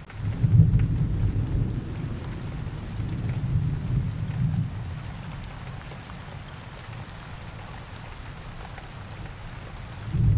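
Steady rain with a roll of thunder: a low rumble starts suddenly at the beginning, rolls on in swells for about five seconds and fades, and another rumble begins right at the end.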